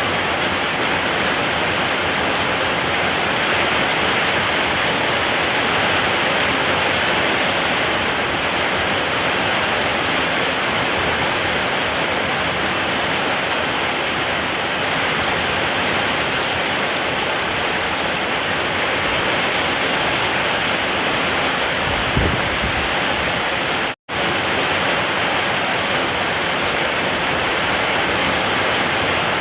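Steady heavy rain falling, an even rushing hiss of water. About two-thirds of the way through there is a brief low thump, and shortly after, the sound cuts out for an instant and comes straight back.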